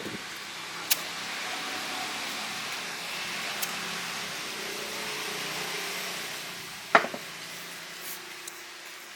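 A motor-driven machine, plausibly the restored fan unit, running with a steady whir over a low hum. Three sharp clicks or knocks come through it, the loudest about seven seconds in.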